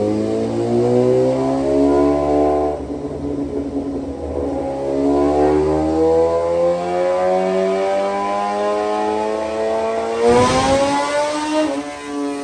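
Inline-four sportbike engine on a chassis dyno, revving up with a steadily rising note, falling back about three seconds in, then climbing again in a longer pull. About ten seconds in there is a short burst of noise as the revs come off, then it settles to a steady lower note.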